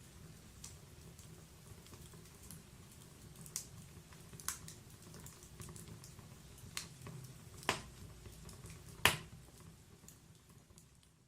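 Log fire crackling in a wood-burning fireplace: scattered sharp pops and snaps over a low steady rumble of the flames, with the two loudest pops late on. The sound fades away near the end.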